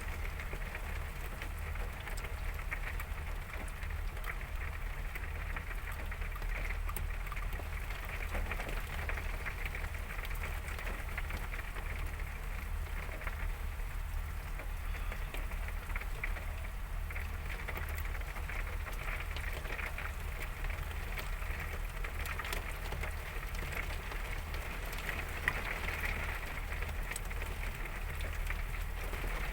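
Heavy rain falling steadily, a constant hiss of rain on surfaces over a steady low hum.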